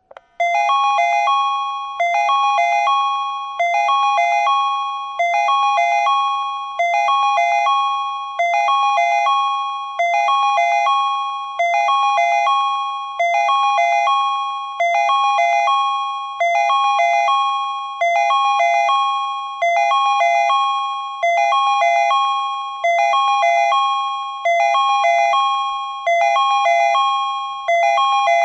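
Tobu Railway platform train-approach warning from a Patlite signal unit: a short electronic chime of a few quick notes followed by held tones, repeating about every one and a half seconds, each repeat fading. It warns that a train is approaching the platform.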